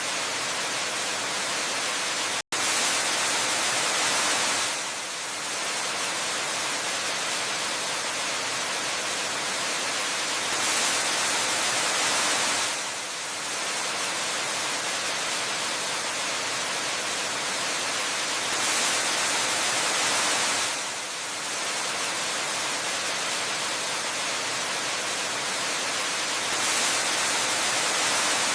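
Waterfall water rushing as a steady, even hiss. It swells a little louder for about two seconds roughly every eight seconds. About two and a half seconds in, the sound cuts out for a split second.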